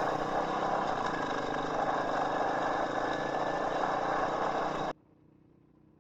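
KTM 500 EXC-F's single-cylinder four-stroke engine running at a steady pace on the move, with road and wind noise. It cuts off suddenly about five seconds in.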